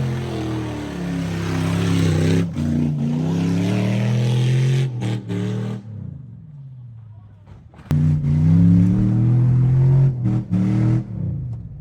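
A car engine revving up and down hard, the sound breaking off abruptly several times. About six seconds in it drops away and winds down, then comes back suddenly at high revs just before eight seconds.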